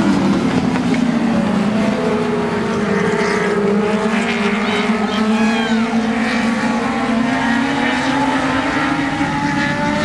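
Several dwarf race cars' motorcycle engines running at racing speed, their notes falling and rising as the cars pass and go through the turns.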